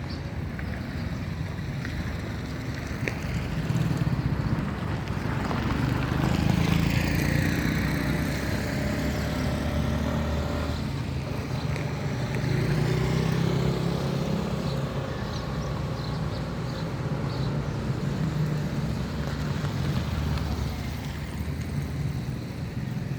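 Road traffic: motor vehicle engines running steadily, with a vehicle passing close by about six to eight seconds in.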